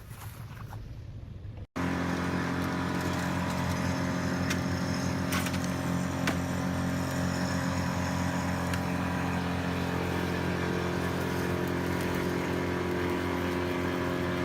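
Morbark brush chipper's engine running steadily at a constant speed after a sudden start about two seconds in, with a few light ticks over it.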